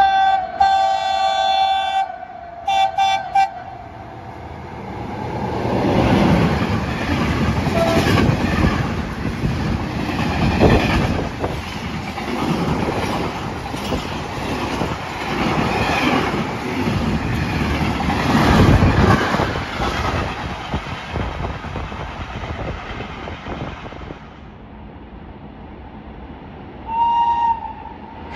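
Electric train sounding a two-tone horn, one long blast then two short ones, then passing through the station with wheels clattering over the rail joints for about twenty seconds before fading. Another short horn blast sounds near the end.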